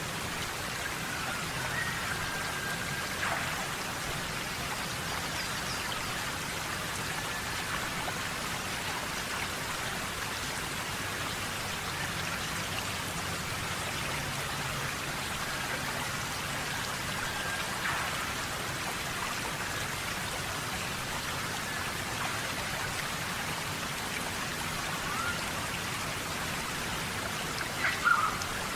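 Steady rain falling on rainforest foliage, an even hiss of drops. A few brief whistled calls sound through it, the loudest cluster near the end.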